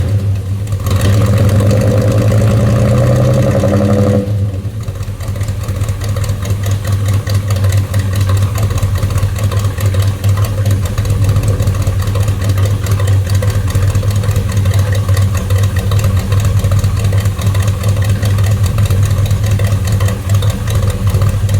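1984 Chevy K20's 350 small-block V8, with a Comp Extreme 4x4 cam and true dual exhaust through Magnaflow mufflers, held at raised revs with the pitch creeping up, then dropping back about four seconds in to a steady idle while warming up from a cold start.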